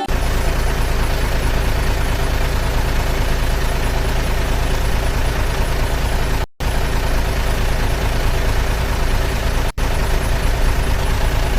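Heavy truck engine running steadily with a deep rumble, cutting out briefly twice, about six and a half and nearly ten seconds in.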